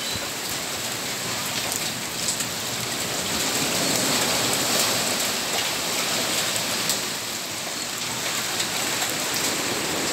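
Rain falling steadily on a sheet of floodwater, with faint drop ticks in a constant hiss.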